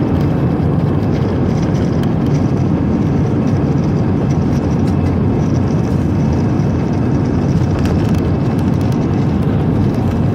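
Airplane at takeoff, its engines at full power making a loud, steady low rumble.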